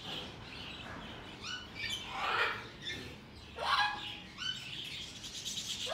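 Birds chirping and squawking in short calls, with louder squawks about two seconds in and again a little before four seconds.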